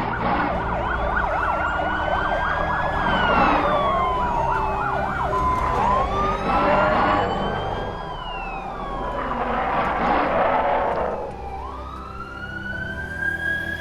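Emergency-vehicle siren wailing in long rising and falling sweeps, with a fast warble in the first few seconds, over background music.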